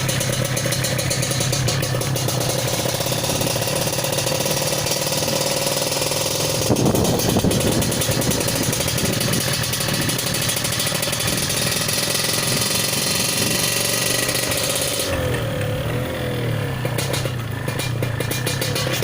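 Motorcycle fitted with an aftermarket 'knalpot Jawa' exhaust running steadily, its exhaust note changing about seven seconds in and sliding in pitch around the fifteen-second mark as the engine speed changes.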